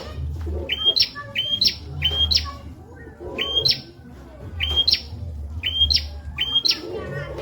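Prenjak (prinia) song: a quick series of sharp, high chirps, each leaping upward, repeated two or three times a second in short bursts, over a faint low rumble.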